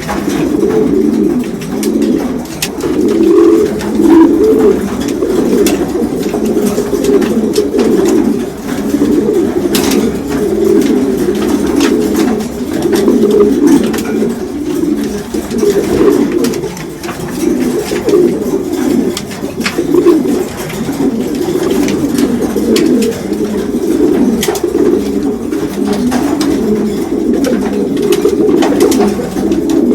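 Many domestic racing pigeons cooing at once in a continuous, overlapping chorus of low pulsing coos. This is the courtship cooing of males with newly paired hens at the start of the breeding season.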